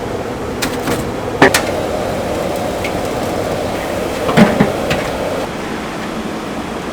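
Cleaver chopping on a wooden block: a few sharp, separate knocks, the loudest about a second and a half in and two close together a little past the middle, over steady background noise.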